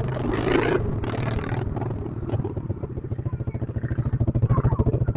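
Pit bike single-cylinder engine running at low revs, a rapid even chugging that grows louder over the second half. A rush of noise in the first second or so.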